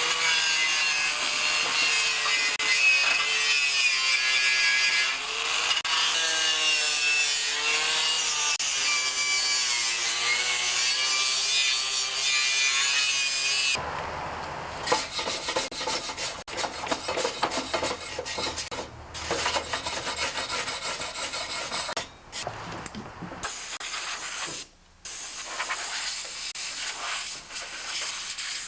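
Angle grinder with a wire brush wheel scouring loose paint and rust off a steel mower deck. Its motor whine dips in pitch and recovers as the brush is pressed on. About 14 seconds in, the whine gives way to a rougher scraping with a few short breaks.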